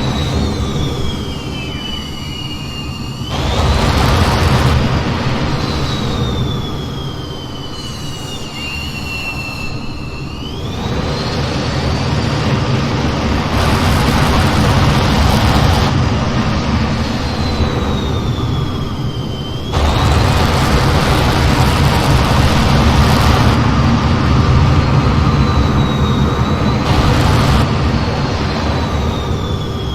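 F-15 jet engines running in flight: a high whine that slides down in pitch and back up several times over a steady rumble. The rumble swells suddenly about 3 seconds in and again about 20 seconds in, with the engine power changing.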